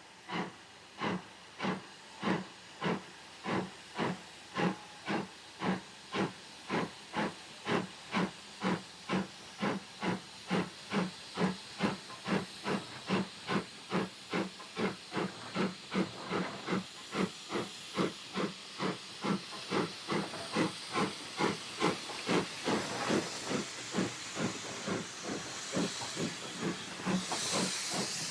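Steam locomotive working hard, its exhaust beating steadily at about two beats a second and growing louder over the first dozen seconds, over a constant steam hiss. A louder rush of steam hiss comes near the end.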